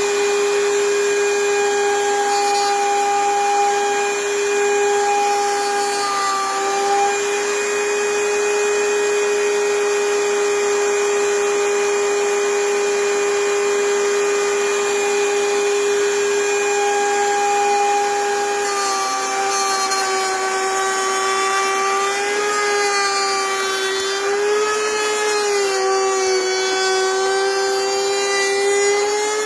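Electric power tool motor running with a steady whine. From about two-thirds of the way through, its pitch wavers and dips repeatedly, as a motor does when the cut loads it.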